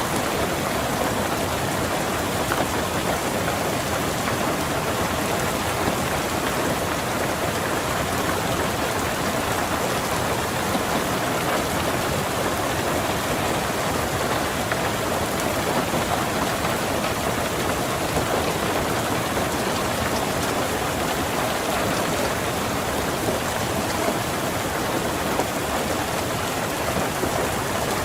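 Steady rain falling on a car, heard from inside: an even, unbroken patter with no thunder cracks.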